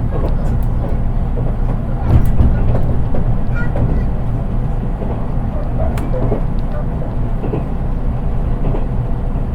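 Interior running sound of a JR East 183 series electric train, heard from the unpowered driving trailer car, so there is little motor sound: a steady rumble of wheels on the rails with scattered light clicks, a little louder about two seconds in.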